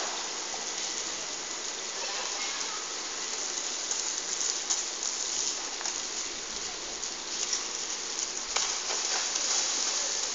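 Rain falling steadily, an even hiss of drops with a few sharper ticks of individual drops striking.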